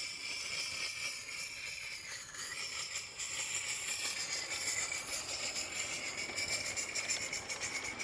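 Model NA class tank locomotive running on track: a steady high hiss, joined from about halfway by a rapid, even ticking.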